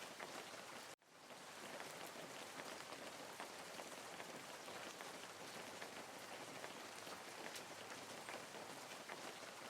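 Steady hiss of water with many tiny droplet-like ticks and no swell of waves. It cuts out abruptly about a second in, then fades back up over the next second, and cuts out again at the very end.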